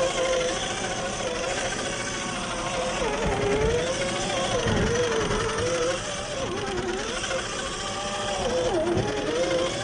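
Whine from an RC crawler's 540 brushed motor and gear train, its pitch rising and falling as the throttle changes. Low knocks come in now and then, about a third of the way in and again near the end.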